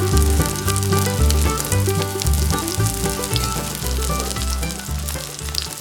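Parasol mushroom frying in sunflower oil in an iron pan, a steady sizzle with fine crackles, under background music that stops near the end.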